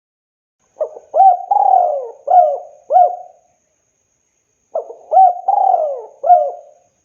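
Spotted dove cooing: two phrases of several short, hooting coo notes, each phrase lasting about two and a half seconds, the second starting about four seconds after the first.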